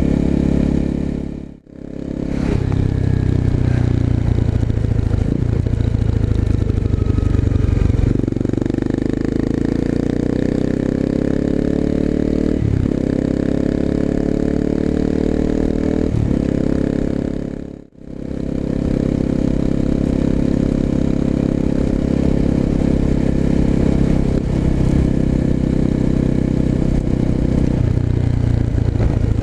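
Exhaust of a 250cc single-cylinder four-stroke motorcycle fitted with an aftermarket muffler, while riding. From about 8 seconds in it accelerates, the pitch rising and falling back at gear shifts about 13 and 16 seconds in; the sound cuts out briefly twice, near the start and just past the middle.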